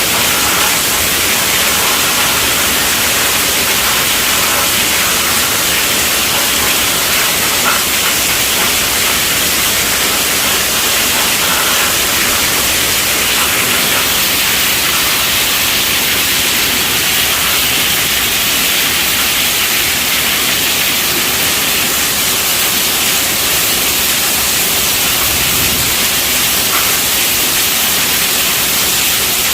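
Heavy rain falling steadily on a tent roof, a dense unbroken patter and hiss with no let-up.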